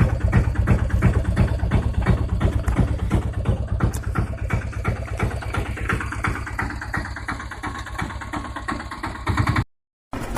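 Eicher tractor's diesel engine running with a steady, rapid chugging beat. The sound drops out completely for a moment near the end.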